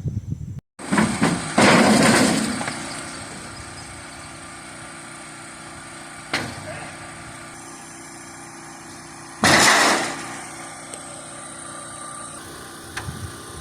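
A small engine or motor runs steadily, with two loud noisy bursts, one about a second and a half in and one near the end, and a sharp knock about six seconds in.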